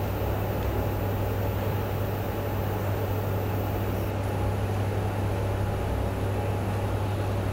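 Steady low electrical hum under an even hiss of room noise, with no voices or clapping.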